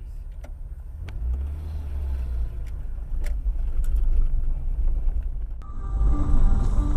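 A car driving, heard as a steady low engine and road rumble with a few faint clicks. About five and a half seconds in, music with held tones comes in over it.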